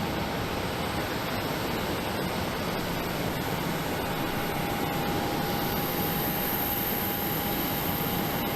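Jet airliner taking off, its engines giving a steady rushing roar, with a thin steady tone throughout and a high whine coming in about halfway through.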